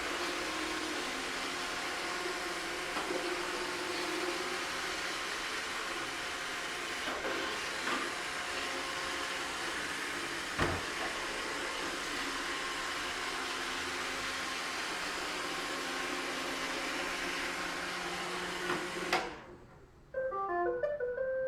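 iRobot Roomba 585 robot vacuum running: the steady whirr of its brush and vacuum motors, with a few light knocks, the sharpest about halfway through. Near the end the motors cut off and a short melody of beeps starts, the tune the robot plays as its cleaning cycle ends.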